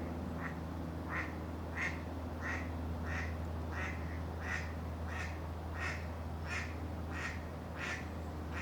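A duck quacking in an even series, about a dozen sharp quacks spaced roughly two-thirds of a second apart.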